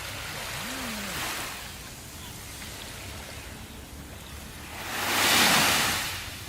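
Sea waves washing on the shore: a small wave about a second in, then a larger one surging up to a loud peak past the five-second mark and drawing back.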